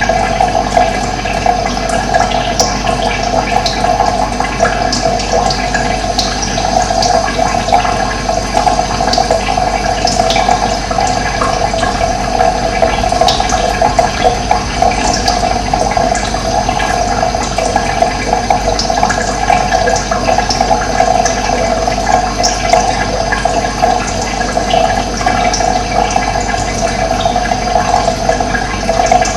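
Steady running water, a stream or small cascade flowing without pause, with short bird chirps scattered faintly over it.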